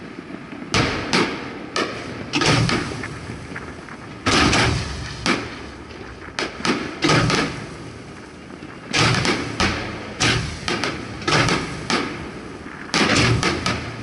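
Aerial fireworks shells launched and bursting at close range: a quick, irregular series of sharp bangs, often several in a row, with a short lull a little past the middle.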